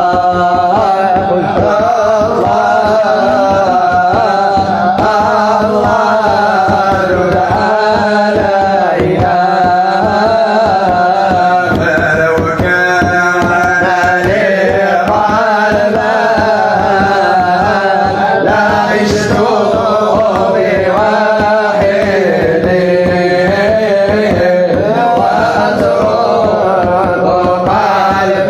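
A devotional Islamic song (nasheed) sung in long, melismatic lines over a steady percussion beat and a held low drone.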